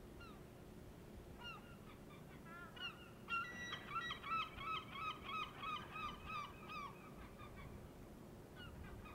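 Birds calling in a rapid series of short, hooked, honking calls, about four a second, starting faintly, loudest in the middle and stopping near the end.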